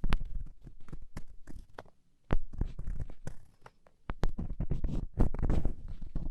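Ear-cleaning ASMR: a black earpick scratching and scraping inside a microphone's ear, heard very close as crackly clicks over a low rumble, with short pauses about two and four seconds in.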